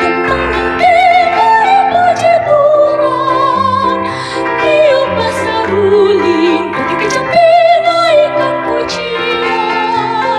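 Church choir singing in several parts: upper voices with vibrato moving over held low bass notes.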